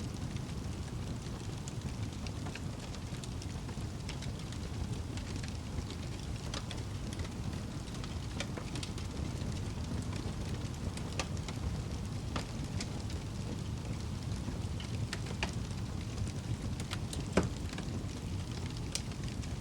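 Wood fire burning in a fireplace: a steady low rumble of flames with scattered small crackles and pops, and one louder pop near the end.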